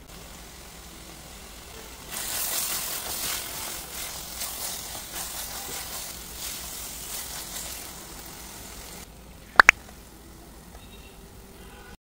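Thick spinach curry sizzling in a nonstick frying pan while a silicone spatula stirs and scrapes it, the hiss starting about two seconds in and easing off after about seven seconds. Near the end, two sharp clicks in quick succession.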